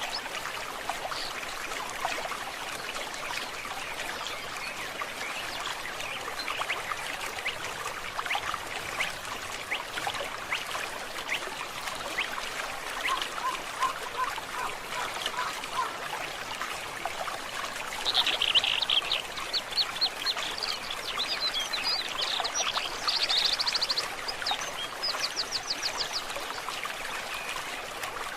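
Stream water trickling and babbling steadily. About two-thirds of the way through, a bird joins with high chirps and fast trills.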